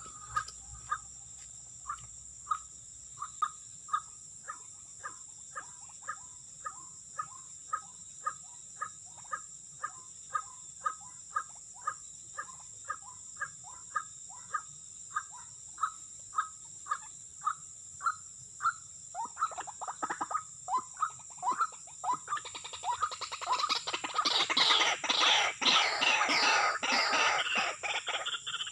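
White-breasted waterhen (ruak-ruak) calling: a long, even series of single notes about one and a half a second. After about 19 seconds they quicken into a loud, dense jumble of harsh calls near the end.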